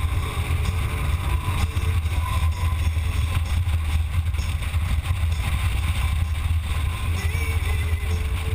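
Motorcycle engine running steadily under way, a constant low rumble mixed with wind rushing past.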